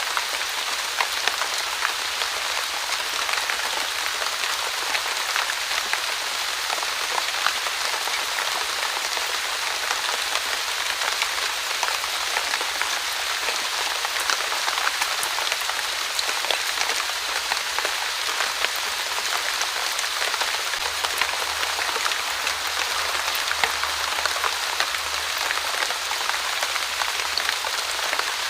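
Light, steady drizzle falling on a surface, an even hiss sprinkled with many small drop ticks.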